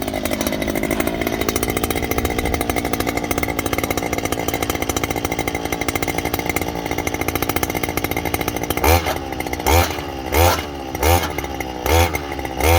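Small engine of a handheld petrol earth auger running steadily. From about nine seconds in, it is revved in short bursts about five times, each under a second apart.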